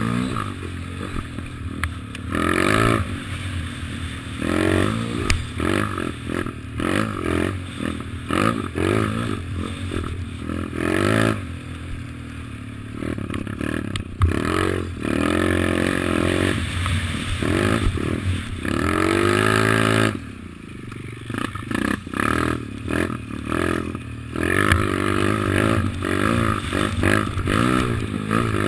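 Kawasaki KLX110 pit bike's small single-cylinder four-stroke engine under riding, its pitch rising and falling over and over as the throttle is opened and closed through the gears. It eases off briefly about two-thirds of the way through, then picks up again.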